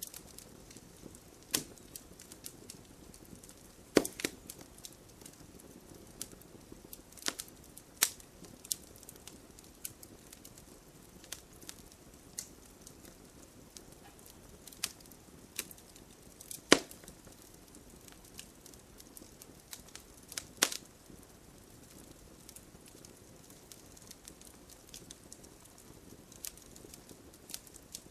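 Campfire burning: wood crackling with scattered sharp pops over a soft hiss, with a few louder snaps about four seconds in and twice past the middle.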